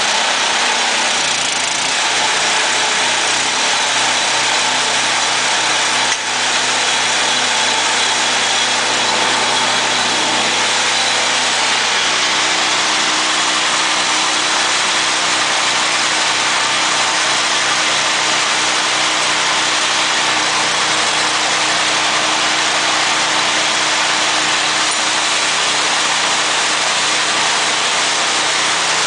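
Petrol engine driving a feed extruder, running steadily and loudly, with a brief dip about six seconds in.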